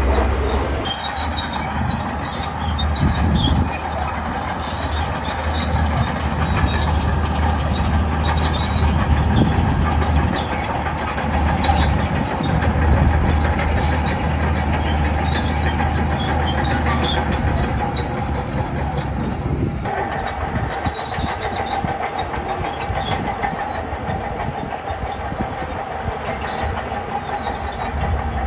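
Shantui crawler bulldozer working, its diesel engine running under load while the steel tracks clank with a steady squeal. About two thirds of the way through the low engine hum drops away.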